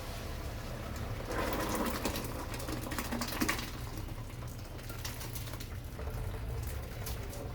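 Parboiled rice and its hot cooking water being poured out of the pot to drain, a rush of splashing water with small clatters from about a second in until about three and a half seconds, then fainter trickling.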